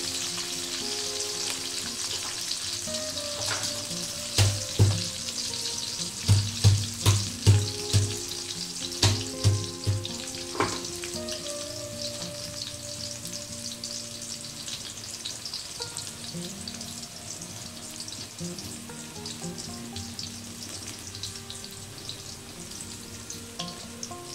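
Sliced shallots and garlic sizzling in hot oil in a steel wok, frying until fragrant, with the sizzle easing slowly. From about four to eleven seconds in, a wooden spatula knocks against the wok around a dozen times in quick runs of about three a second.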